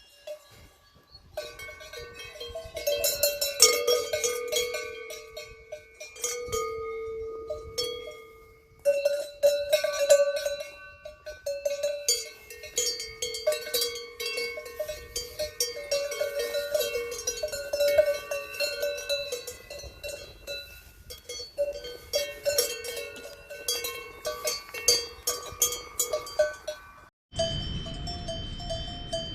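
Several cowbells clanking and ringing irregularly, many strokes overlapping, the sound breaking off abruptly and resuming a few times.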